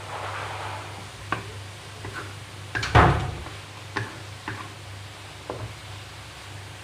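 A series of sharp kitchen knocks and clatters, about seven in all and irregularly spaced, the loudest a heavy clatter about three seconds in, over a steady low hum.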